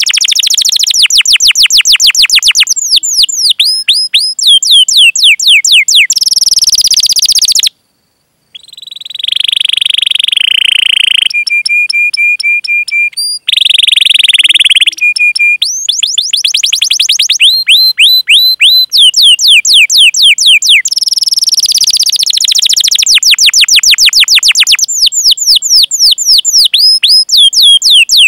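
Domestic canary singing loudly: long rolls of rapid, sharply falling chirps (the 'cuit cuit' call) alternating with steadier trills, broken by a brief silence about eight seconds in.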